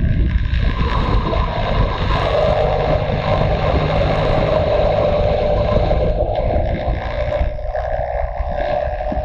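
Motorcycle engine running under way, mixed with wind noise on the microphone. The engine note climbs gradually, drops off about two-thirds of the way through, then climbs again.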